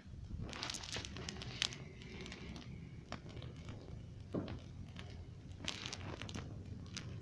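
Fire crackling: irregular sharp pops and snaps from burning brush.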